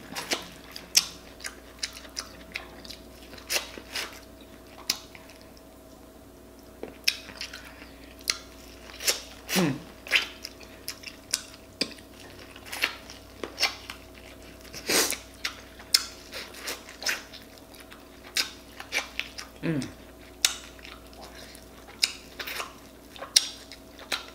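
A person eating sweet corn on the cob close to the microphone: biting and smacking while chewing, heard as irregular sharp clicks several times a second.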